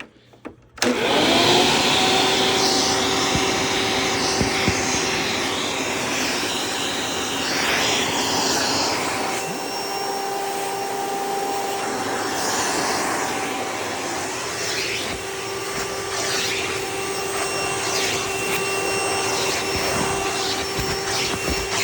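Hoover Preferred upright vacuum cleaner switching on about a second in. Its motor spins up to a steady whine and keeps running, with the rush of air shifting and changing as the stretch hose is used.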